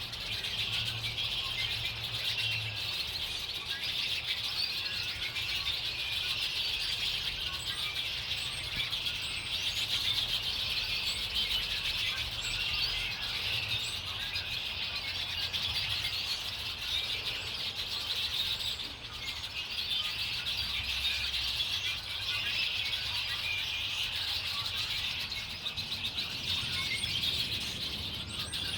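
Many small birds chirping at once in a dense, continuous chorus of overlapping high chirps.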